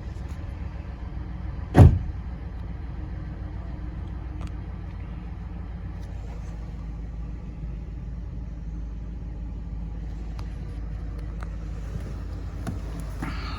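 2007 Chevrolet Impala SS's 5.3-litre V8 idling steadily while warming up after a cold start. A single loud thump cuts in about two seconds in.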